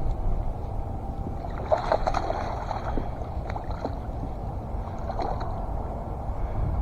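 Wind buffeting the microphone as a steady low rumble, with a few brief clusters of clicks or splashes.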